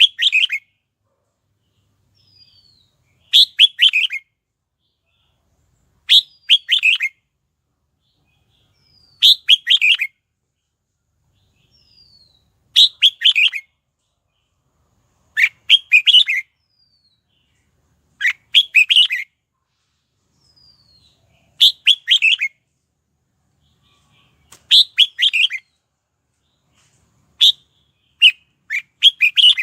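Red-whiskered bulbul singing short, loud phrases of chirping notes, about one phrase every three seconds, each with a faint falling note just before it. Near the end the phrases come quicker.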